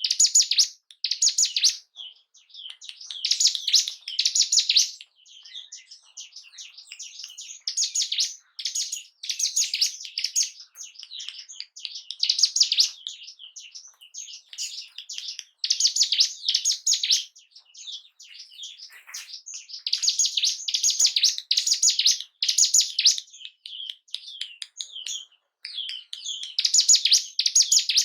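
Ciblek gunung, a prinia, singing: loud, rapid high-pitched song phrases of a second or two each, repeated over and over with short pauses, the kind of song used as a lure to rouse a caged bird's breeding drive and aggression.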